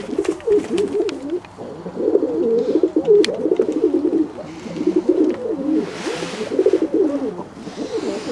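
Several fantail doves cooing at once, overlapping low, bubbling coos that run on without a break.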